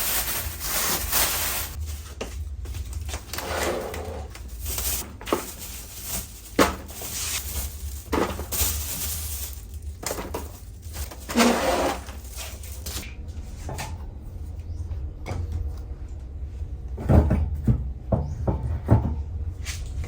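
Groceries being put away in a kitchen: irregular knocks and clicks of containers and cupboard doors, with short stretches of rustling, over a steady low hum.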